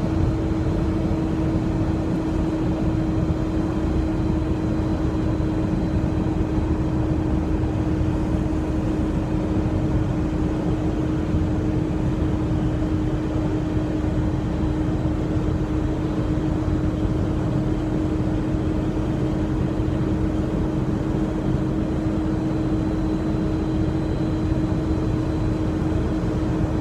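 Steady drone inside the cab of a Freightliner semi-truck, with engine and road rumble and a constant hum.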